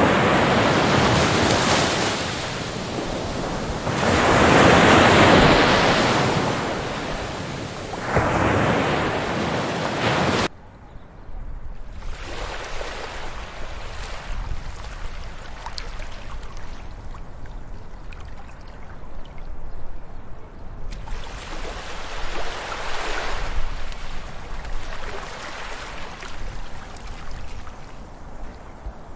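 Ocean surf breaking on a beach: three loud waves surge and wash in over the first ten seconds, then the sound cuts abruptly to a quieter, softer wash of surf over a low rumble, with one more wave swelling up about two-thirds of the way through.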